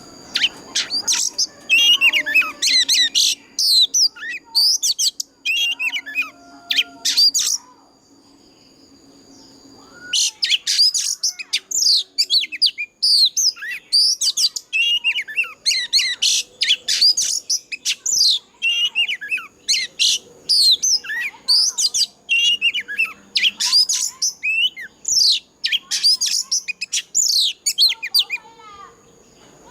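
Oriental magpie-robin singing a loud, fast, varied run of whistled notes and trills. It breaks off for a couple of seconds about a third of the way in, then sings on almost without a pause until near the end.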